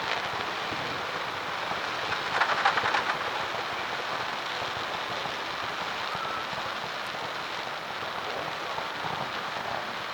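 Fireworks crackling in a rapid, dense flurry about two to three seconds in, over a steady hiss.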